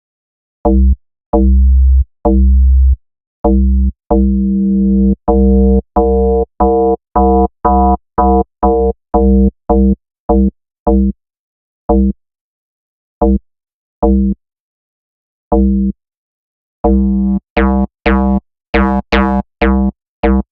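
Plucked synth bass in Arturia Pigments, built from a sine wave with FM, played as separate notes: mostly short plucks, some held about a second, with gaps between them. The tone changes as the phase-modulation and wavefolding settings are adjusted, growing brighter and buzzier near the end.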